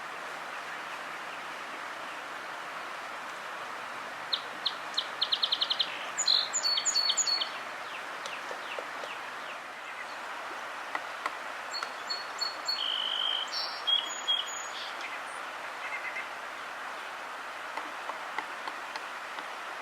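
Songbirds calling outdoors: a rapid run of short high chirps about four seconds in, then quick falling notes, and another cluster of chirps and whistles around twelve to fifteen seconds, all over a steady background hiss.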